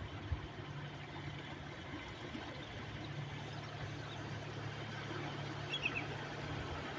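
Steady coastal sea ambience: an even wash of waves with a low steady hum underneath, and a few short high bird chirps about six seconds in.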